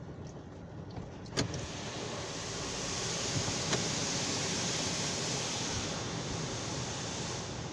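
A Belanger Freestyler car wash machine spraying the car, heard from inside the car as a steady hiss. The hiss swells a little after a sharp click about a second and a half in, then eases off near the end.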